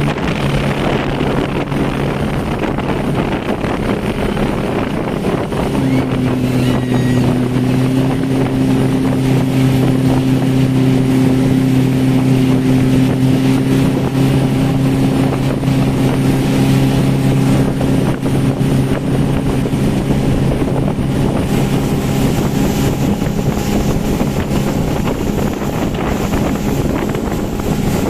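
Motorboat engine running at a steady speed, its note shifting a few seconds in and then holding, with wind buffeting the microphone and water rushing.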